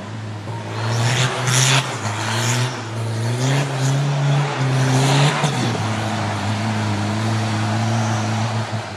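Off-road 4x4's engine revving in surges, with short bursts of hiss, then dropping about five and a half seconds in to a steady lower drone.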